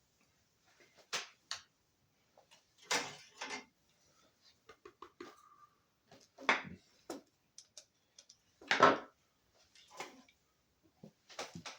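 Scattered clicks, taps and knocks of small parts being handled while a speedometer motor is fitted into a truck's instrument cluster, with the loudest knocks about three seconds in, about six and a half seconds in, and about nine seconds in.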